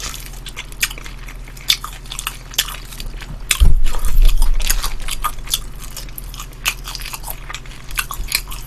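Close-miked chewing of crispy fried chicken: crunching and wet lip-smacking in a steady stream of small sharp clicks. A low thump comes about three and a half seconds in.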